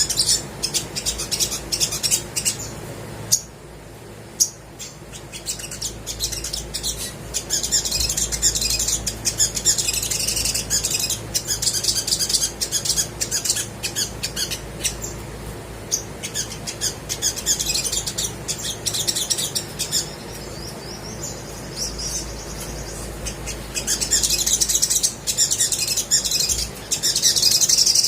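Olive-backed sunbird singing: rapid, high-pitched chirping and twittering in bouts broken by short pauses, over a faint low hum.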